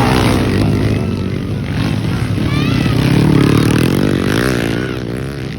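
Motocross motorcycle engines racing, revving up and down as the bikes accelerate and back off.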